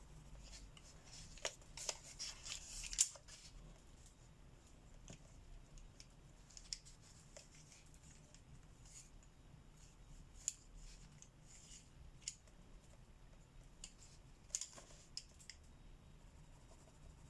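Faint scratching of a pencil on paper in short colouring strokes: a quick run of strokes about two seconds in, then scattered single strokes.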